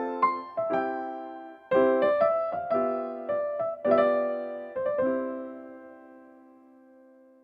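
Background music on piano or electric piano: a phrase of struck notes, then a final chord that rings and fades away over the last couple of seconds.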